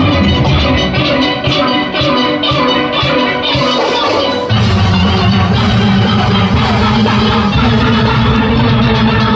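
A steel band of steelpans playing, with percussion keeping a steady beat. About halfway through, a deeper, fuller bass part comes in.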